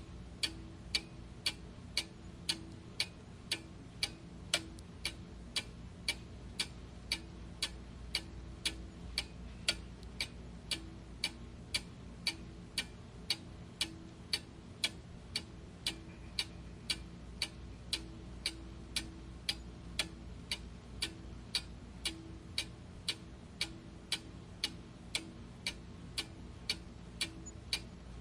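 Clock ticking steadily, about two even ticks a second, over a faint low hum.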